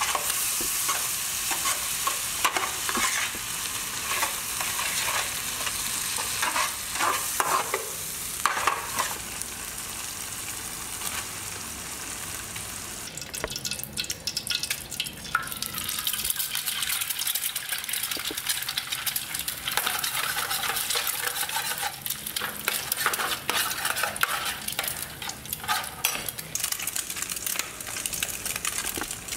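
Egg and vegetables sizzling in hot lard in a frying pan, with a spatula stirring and scraping against the pan. The sizzle drops for a couple of seconds about halfway through, then rises again.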